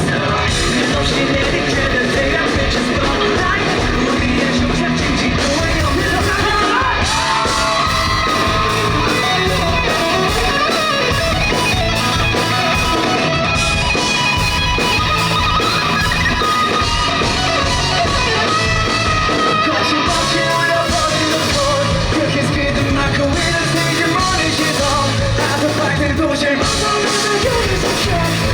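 Live rock band performance with electric guitars, bass, drums and sung vocals, heard through a fan's camera microphone in a hall, loud and continuous.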